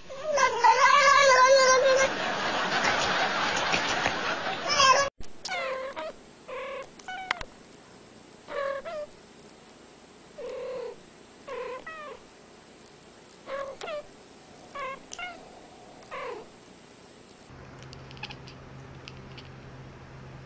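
A cat yowls with a wavering pitch, then makes a harsh, noisy sound for a few seconds. After an abrupt change, a cat meows in about ten short calls, roughly one a second.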